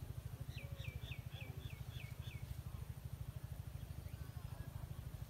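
A bird calling a run of about seven short, quick notes, each falling in pitch, about three a second, in the first half. Underneath, a low, fast, even pulsing hum goes on steadily.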